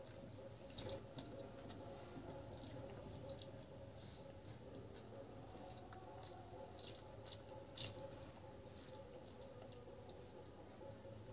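Faint eating sounds of rice and dal eaten by hand: scattered soft, wet mouth clicks and smacks of chewing, with fingers squishing the rice, over a low steady hum.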